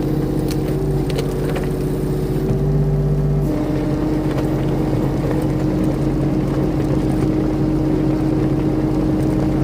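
Mini excavator's diesel engine running steadily under work, its pitch stepping down slightly about three and a half seconds in, with a few faint clicks near the start.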